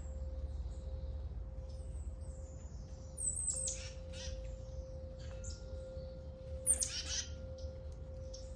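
Wild birds calling: scattered short high chirps and whistles, with two loud, rough calls about three and a half and seven seconds in. A faint steady hum and a low rumble run underneath.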